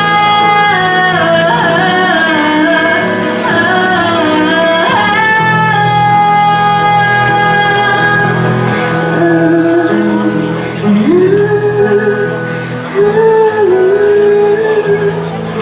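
Female singer performing a Cantonese pop song live over amplified backing music, with a steady bass and chords under a wavering sung melody.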